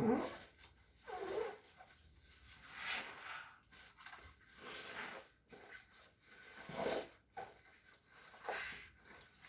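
Squeaky, squishy cleaning strokes, six or seven in a row. Each is a short squeak that slides up and down in pitch, over a rasping scrub.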